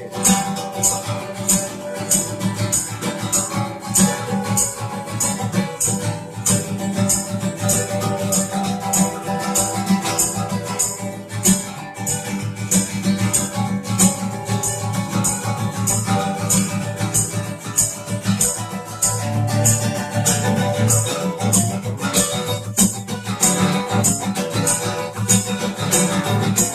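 Instrumental break of a song: guitar with a shaker keeping an even beat, no singing.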